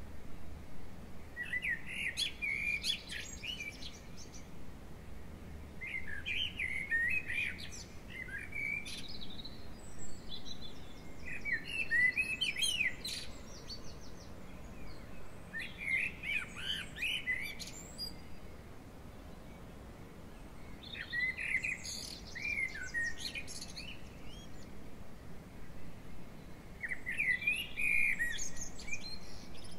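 A songbird singing a string of short chirping phrases, about two seconds each, roughly one every five seconds, six in all.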